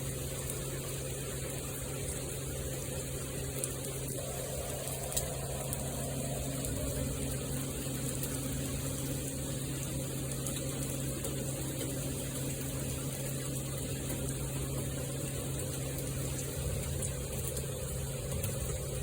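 Steady rain pouring down, with a few sharp drip ticks and a constant low hum underneath.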